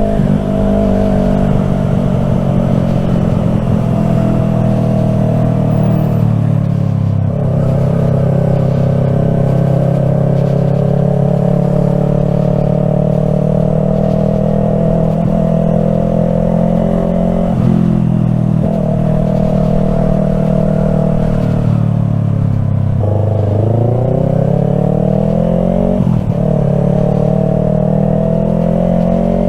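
Yamaha R3's parallel-twin engine running under way at a fairly steady pitch, dipping briefly several times as the throttle is eased and reopened, and once dropping lower before climbing back up.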